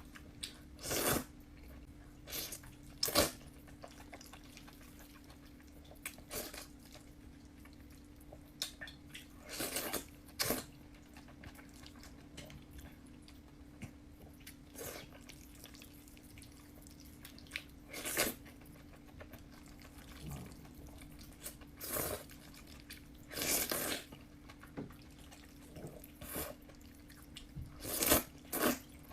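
A person eating fried noodles close to the microphone: short, separate bursts of chewing and slurping, about fifteen of them at irregular gaps, over a faint steady low hum.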